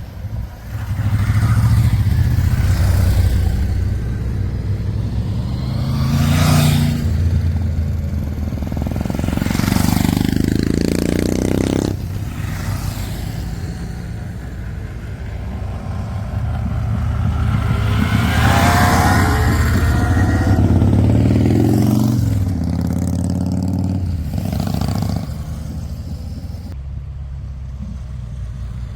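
Honda C90's small single-cylinder engine running under way, twice climbing in pitch as it accelerates and dropping sharply at a gear change, with wind rushing over the microphone.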